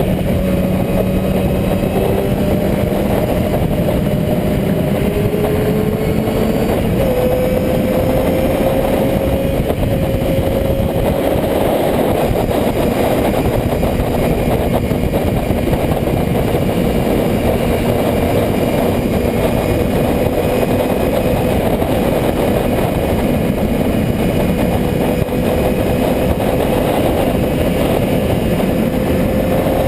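Motorcycle engine running steadily under a dense rushing noise; its pitch climbs slowly over the first several seconds and then holds level.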